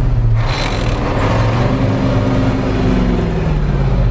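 Truck engine running, its revs rising and then falling back in the middle while the driver works the clutch and gears.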